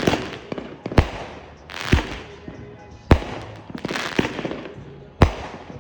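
Red Apple Fireworks Tiki Assault 42-shot cake firing: a loud shot about once a second, with crackling between the shots.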